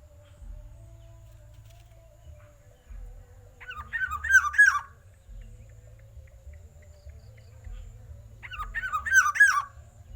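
Black-naped oriole calling loudly in two bursts of about a second each, a few seconds apart, each a quick run of arching, slurred notes.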